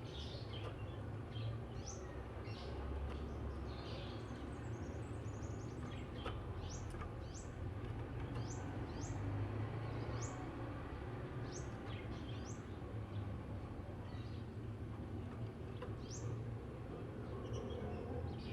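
Oriental magpie-robin (kacer) singing: a loose string of short, sharp, rising whistled notes, about one every second, over a steady low background hum.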